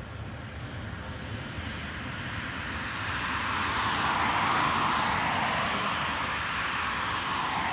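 Jet noise from an arriving Airbus A320-214's CFM56 turbofans: a steady rushing roar that swells to its loudest about four to five seconds in and then eases slightly as the airliner passes.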